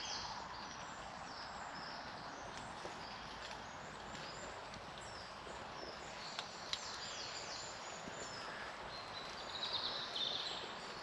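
Woodland birds calling: many short, high, falling chirps scattered throughout, a busier burst of song near the end, over a steady hiss. Two sharp ticks about six and a half seconds in.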